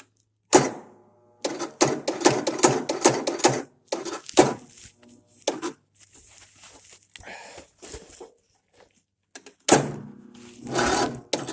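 A string of sharp knocks and metallic clanks, some ringing briefly, in an irregular run with short quiet gaps: hand work on the tractor and its battery gear.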